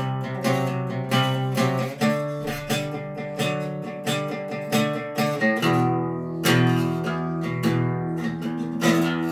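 Acoustic guitar strummed in a steady rhythm, changing chord about two seconds in and again past halfway: the instrumental introduction before the singing begins.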